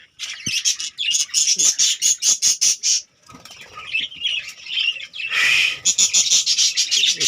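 Budgerigars squawking in rapid runs of short, high-pitched calls, with softer chatter in between and a harsher, noisier burst about five seconds in.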